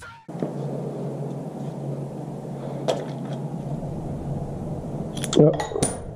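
Metal engine parts clinking as they are handled: a single click about three seconds in and a quick cluster of sharp metallic clinks near the end, over a steady background hum.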